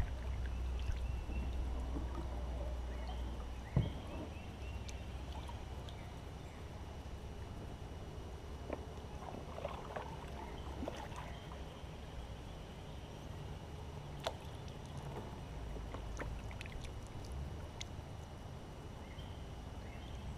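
Kayak moving on calm water: a steady low rumble, with scattered small knocks and water sounds against the hull. The sharpest knocks come about 4 seconds and about 14 seconds in.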